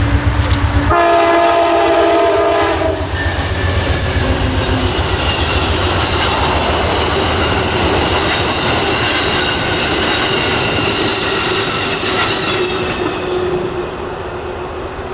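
A locomotive horn sounds one chord of several notes for about two seconds, starting a second in, over the low rumble of the engine. Then the train rolls past with steady rail noise and the regular clickety-clack of wheels over rail joints, easing off near the end.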